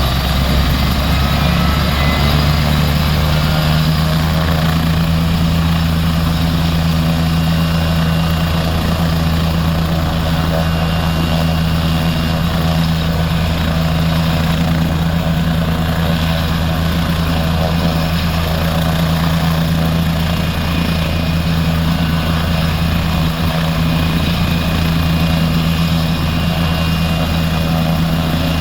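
Kent, Surrey & Sussex air ambulance helicopter, a Leonardo AW169, running steadily with its turbine engines and rotors turning, making a constant droning hum with no rise or fall in pitch.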